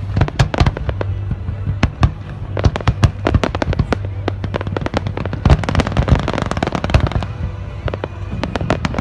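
A fireworks display: a rapid, uneven series of sharp bangs and pops, thickening into dense crackling about five and a half seconds in, over a steady low hum.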